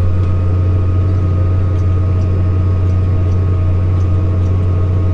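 Tractor engine running at a steady speed, pulling a field cultivator through the soil: a loud, even low drone with a faint steady whine above it.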